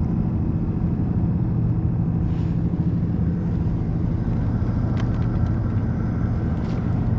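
A motor running at a steady low hum, unchanged throughout, with a couple of faint ticks about five and seven seconds in.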